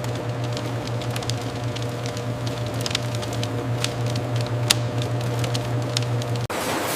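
Steady low machine hum with scattered crackling ticks over it. The hum cuts off sharply near the end as a noisier sound takes over.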